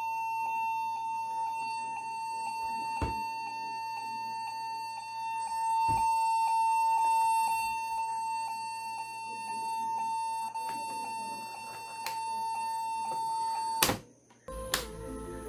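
A laptop's beeper sounds one continuous, unbroken beep that does not stop, a sign that the laptop is failing to boot into Windows. The beep cuts off abruptly near the end.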